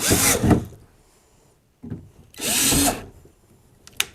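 Cordless power drill run in two short bursts, each about a second long, its motor whine rising and falling in pitch.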